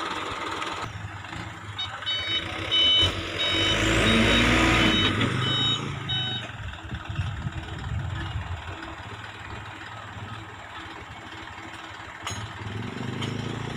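A truck passing on the road with its engine running, louder in the middle, while a repeated electronic beep sounds about twice a second for a few seconds.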